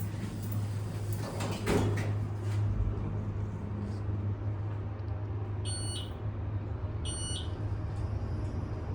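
Elevator car running with a steady low hum, a knock about a second and a half in, then three short, high electronic beeps over the last few seconds.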